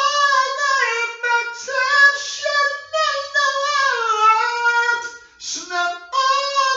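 A high solo voice singing a slow melody with no accompaniment, starting suddenly out of silence.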